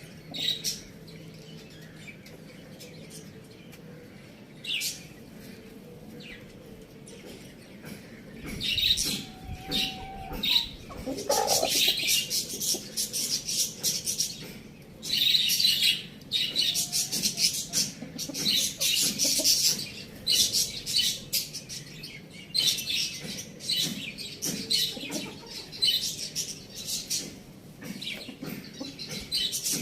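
Birds chirping: a few scattered high chirps at first, then from about eight seconds in a dense, busy run of rapid short high calls, with one brief lower call a few seconds after that. No rooster crow is heard.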